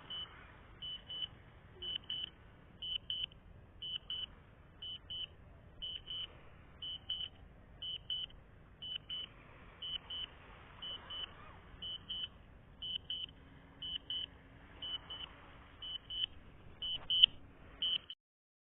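DJI drone flight app's warning alarm: pairs of short high-pitched beeps, about one pair a second, as the DJI Spark loses its controller signal and is sent into return-to-home. The beeping cuts off suddenly near the end.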